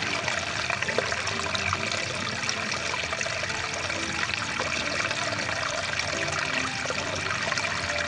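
Rushing water of a stream, a steady, even rush.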